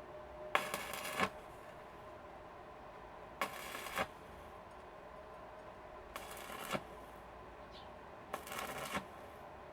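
Four short scraping strokes, each under a second and about three seconds apart, each beginning and ending with a click.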